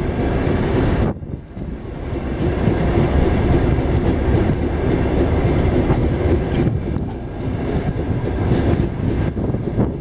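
Passenger train running along the track, the steady rumble of the wheels on the rails heard from aboard the carriage, with a brief drop in level about a second in.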